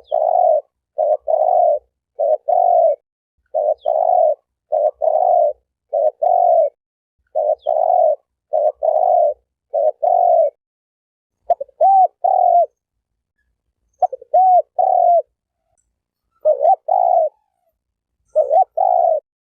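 A spotted dove cooing loudly in a steady run of low two-note coos. Past the middle the coos turn more wavering and come with longer gaps.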